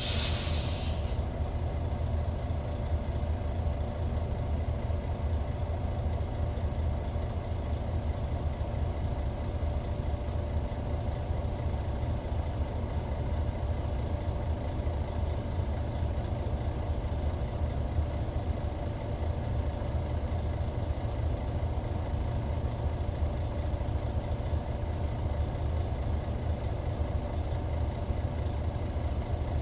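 Hyundai D6CC Powertec 380 straight-six diesel in a Hyundai Universe Comfort coach, running steadily with an even, unchanging pitch. A short hiss of air comes right at the start.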